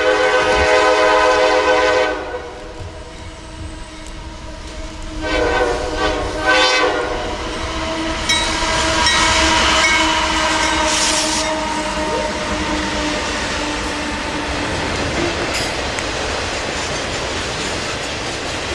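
CSX freight train sounding its multi-note horn: one long blast for about two seconds, then a shorter blast about five seconds in. The diesel locomotives then pass, and the rumble and clickety-clack of the autorack cars on the rails carries on steadily.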